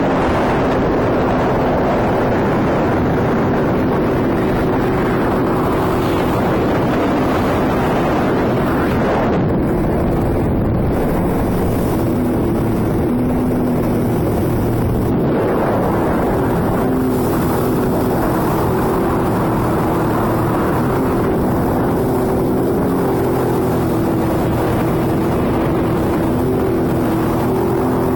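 Sea-Doo jet ski engine running steadily under way, its note shifting slightly in pitch, with the rush of water and wind on the microphone.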